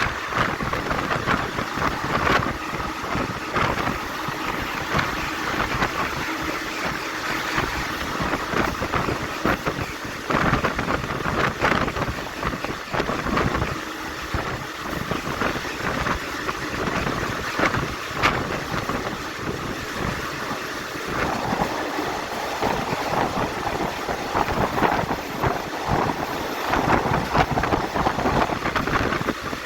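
Passenger train running at speed, heard from inside the carriage: a continuous rush of wind and rolling noise, with irregular rattles and knocks from the wheels and coach.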